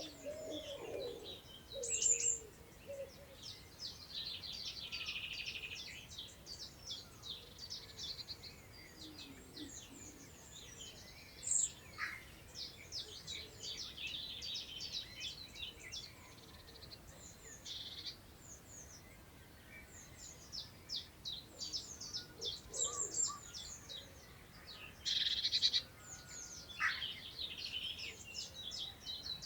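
Several songbirds singing and calling at once, a busy mix of quick, high chirps and trills that overlap throughout. A lower, softer call sounds in the first second or so.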